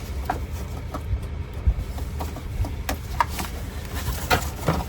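Scattered small clicks and knocks of wiring connectors and a plastic door panel being handled and plugged together, over a low steady rumble.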